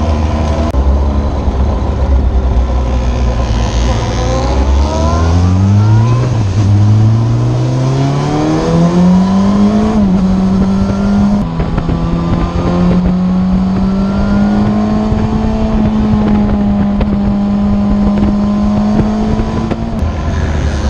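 Yamaha FZ8's inline-four engine with an Akrapovic exhaust pulling away. The revs climb over the first ten seconds, with a short step about six seconds in, then hold steady for about ten seconds before falling back to a low note near the end.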